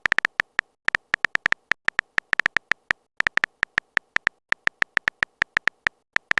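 Phone keyboard typing sound effect: quick, irregular short clicks with a couple of brief pauses, as a chat message is typed out.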